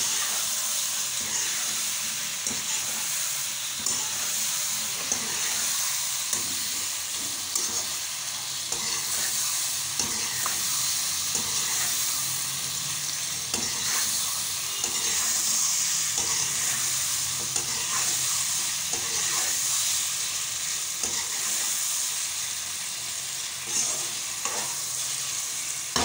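Sliced potatoes with tomato and onion sizzling in hot oil in a wok, stirred and turned with a spatula that scrapes and taps against the pan again and again. The potatoes are being pan-fried (bhuna) before water is added.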